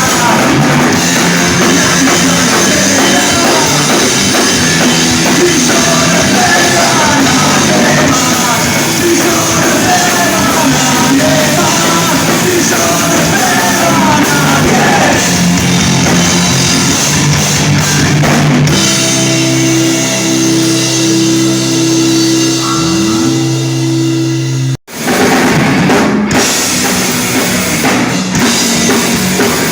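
Live rock band playing loud, with drum kit, electric guitars and singing. About 19 seconds in the band holds a sustained chord with a bending note. Near 25 seconds it cuts off abruptly for an instant, then the full band comes back in.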